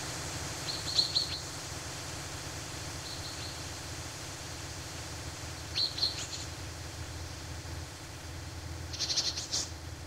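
Small songbirds chirping in short high bursts, about four times, the last a quick run of chirps, over a steady background hiss and low rumble.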